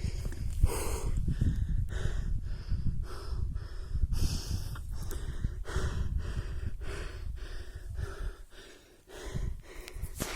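A man breathing hard and fast in quick, even breaths, about two a second, from the exertion of a steep climb, with a low wind rumble on the microphone.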